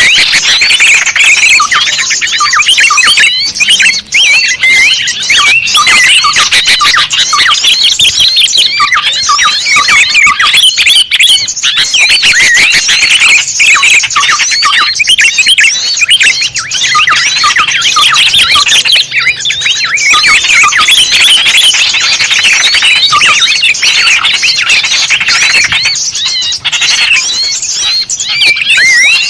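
Dense, continuous chatter of many small birds calling at once, rapid high chirps and trills overlapping without pause. It is a bird-lure (pikat) recording, made to draw small wild birds in.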